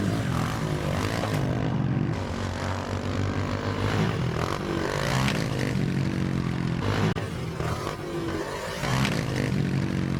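Small single-cylinder four-stroke 110cc pit bike engine revving hard while being ridden. Its pitch climbs and drops several times as the rider accelerates, shifts and rolls off.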